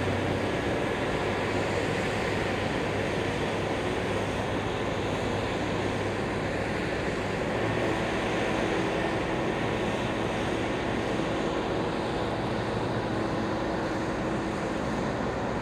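Steady jet airliner noise: an even rushing over a low hum, with a faint steady tone joining about halfway through.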